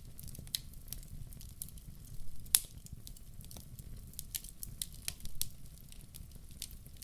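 Wood fire in a fireplace crackling, with irregular sharp pops and one loud pop about two and a half seconds in, over a steady low rumble.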